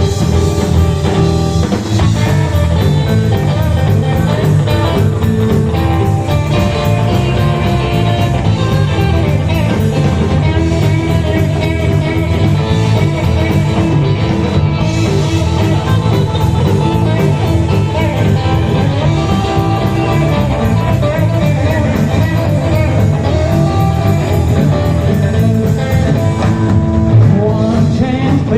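Rock and roll band music: an instrumental stretch between sung verses, with guitar, a stepping bass line and a steady drum beat.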